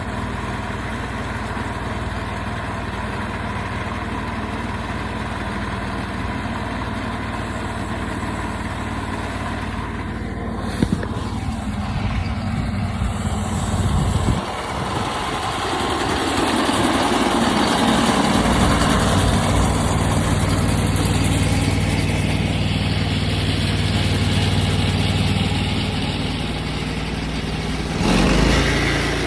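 Portable sawmill's engine running steadily. About halfway through it turns louder and fuller, the sound of the mill working in the cut, with a brief louder surge near the end.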